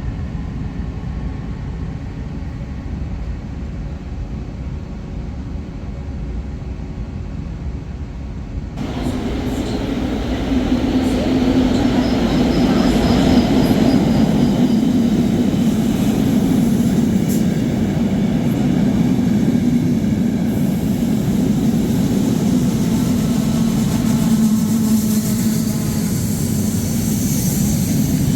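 A train running on rails, a steady low rumble. About nine seconds in the sound cuts to a louder, closer train, with a faint high whine for a few seconds after the cut.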